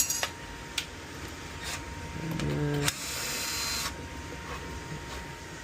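A cordless drill-driver whirs briefly, backing out a screw on a furnace condensate drain trap about halfway through. Light clicks and knocks of handling come before it, and about a second of rustling hiss follows.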